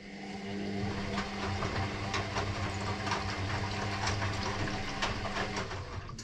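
Electrolux EW6S404WU washing machine's pump running, a steady hum with water rushing and crackling through it, that starts abruptly and cuts off near the end.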